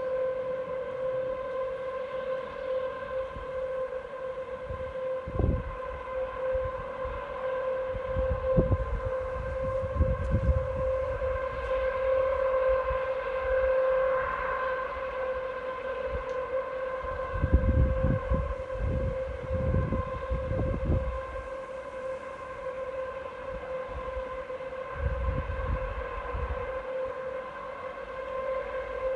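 A steady, unchanging hum with overtones, of unknown source, heard as coming from the sky. Gusts of wind buffet the microphone several times over it.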